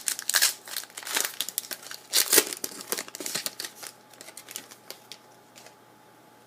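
Trading card pack wrapper crinkling and tearing as it is opened: a dense run of sharp crackles, loudest about two seconds in, that thins out and stops shortly before the end.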